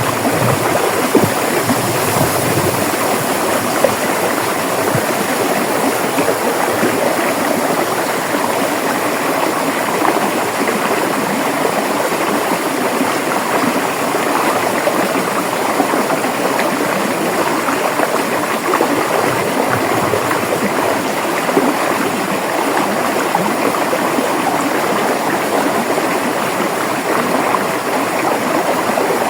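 A river or stream running steadily over rocks, a continuous rushing and gurgling of water.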